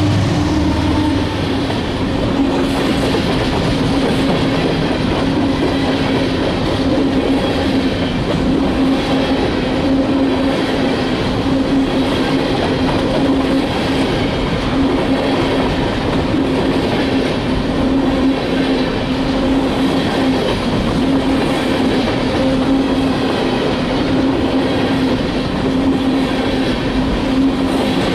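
Freight train cars rolling steadily past, steel wheels clicking over the rail joints under a continuous rumble and a steady hum.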